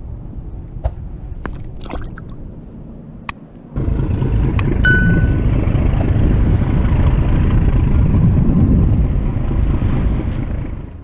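Low rumbling noise of wind and water on the microphone while out on a kayak at sea; it jumps suddenly much louder about four seconds in and stays loud. About a second after the jump there is a short high ding, along with a few scattered clicks.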